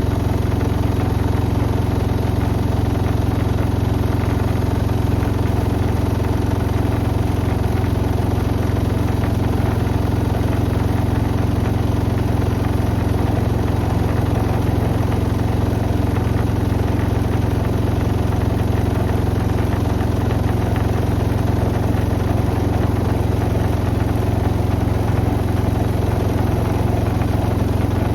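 Beko WM74135 washing machine spinning at a steady high speed: a continuous, even hum of drum and motor that holds one pitch throughout.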